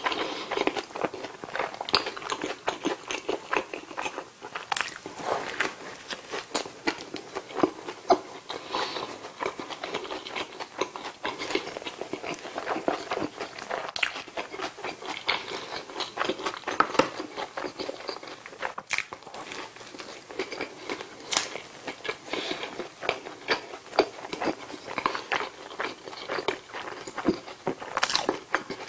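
Close-miked eating of a McDonald's bulgogi burger: bites into the soft bun and lettuce and continuous chewing, heard as a dense, irregular run of small wet clicks and crunches, with a sharper click near the end.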